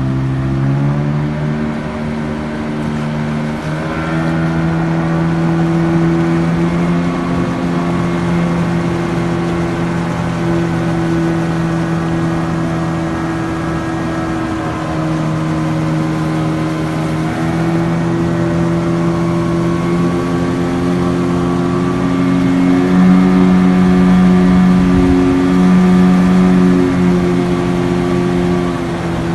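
An engine running steadily at high speed. Its pitch climbs in the first second or two, then holds, with small shifts in speed later on.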